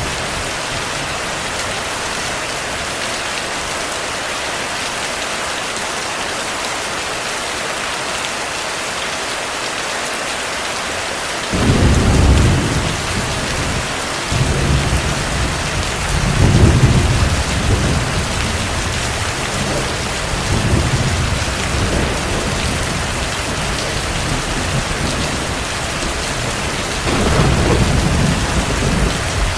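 Heavy rain falling steadily. About eleven seconds in, low thunder rumbles begin and roll on, swelling and fading several times.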